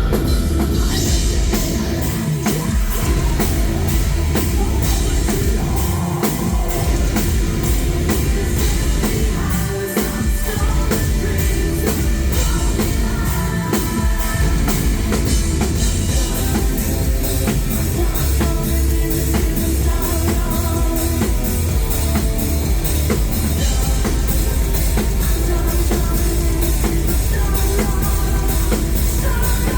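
Metal band playing live, recorded from the crowd: drum kit, heavy bass and guitars with singing over them. About halfway in, the drums settle into fast, even kick-drum strokes.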